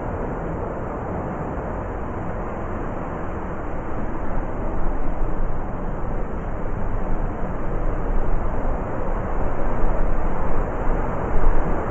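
Heavy blizzard wind blowing as a steady rush, rising into stronger gusts from about four seconds in.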